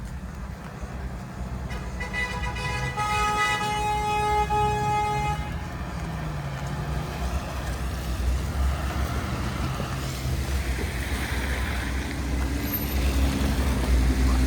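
Street traffic with a vehicle horn sounding one long steady blast of about three and a half seconds, over a constant low rumble of engines that grows louder near the end.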